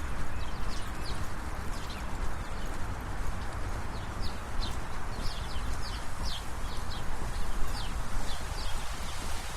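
City street ambience during a fast walk: a steady low traffic rumble with brisk footsteps, and small birds chirping in short, high, scattered calls.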